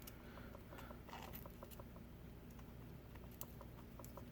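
Faint scattered clicks and small crackles as a thin metal prying tool works under the cracked glass at the edge of an iPad Pro screen, separating it from its adhesive. A faint, rapid, even ticking runs beneath.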